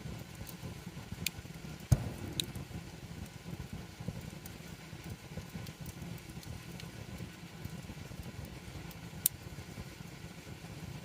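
Wood campfire crackling, with a few sharp pops over a steady low rumble. The loudest pop comes about two seconds in and another near the end.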